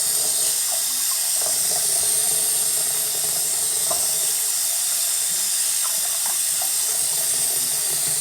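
Tap water running steadily into a sink: an even, unbroken hiss.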